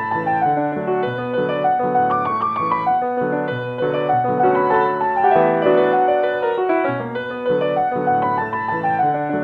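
Background piano music, a gentle flowing melody over a repeating accompaniment.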